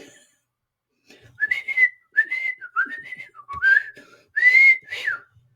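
A person whistling a string of short chirping phrases that rise and fall like talk, giving voice to a bird puppet's reply.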